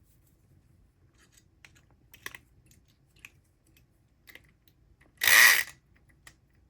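Scattered light clicks and taps, then a single half-second buzz of a SouthOrd E500XT 4.5-volt electric lock pick gun, its motor briefly spinning up and snapping the pick needle in an American lock.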